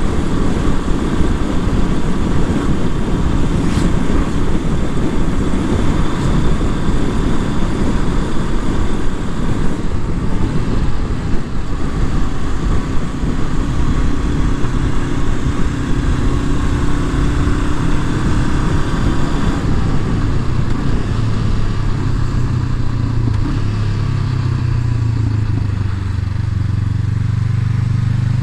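Honda CB500F's parallel-twin engine running on the move, under heavy wind rush on the microphone. Past the middle the wind eases and the engine note comes through, dropping to a lower, steady drone.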